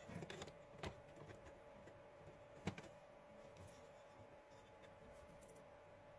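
Near silence with a faint steady hum and a few soft clicks of handling, about a second in and again near the three-second mark, as the shaver's worn-out old battery is desoldered and pulled free.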